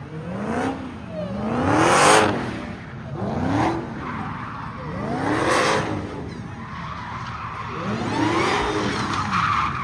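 Car engine revving up and falling back again and again while its tyres squeal and skid in spins. The loudest hissing surges of tyre noise come about two seconds and five and a half seconds in.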